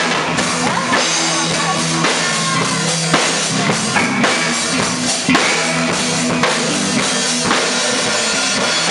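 Band music with a prominent drum kit, bass drum and snare hits over a steady bass line.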